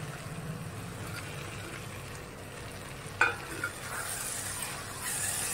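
Chopped vegetables in sauce frying in a non-stick kadhai and being stirred with a wooden spatula: a soft, steady sizzle with scraping strokes, and a single sharp knock about three seconds in.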